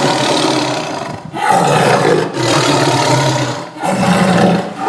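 Lion roar sound effect: four rough roars in a row, each about a second long with short breaks between.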